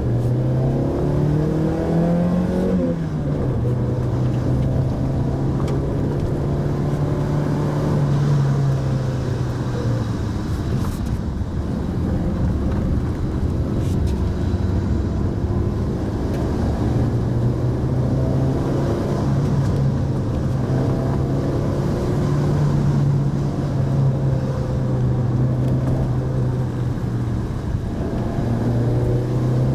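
Mitsubishi Pajero Mini engine running on the move, its pitch following the throttle: climbing during the first few seconds and dropping back, then holding fairly steady, and rising again near the end.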